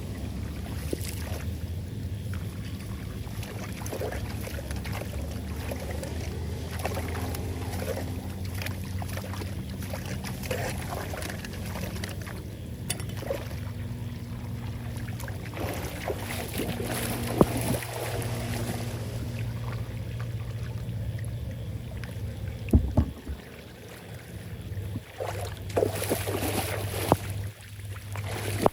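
Floodwater rushing and swirling steadily down a street drain, with a deep low rumble. Near the end the rumble drops away and a few sharp knocks stand out.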